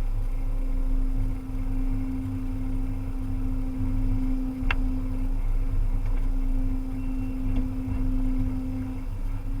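Volvo EC300E excavator running steadily, its diesel engine droning under a steady hum, with one sharp click a little under halfway through.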